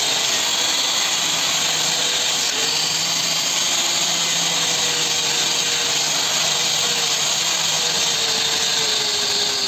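Electric power tool running steadily with a high hiss, its motor pitch sagging slightly a few times as it is pressed into the work on the sword blade.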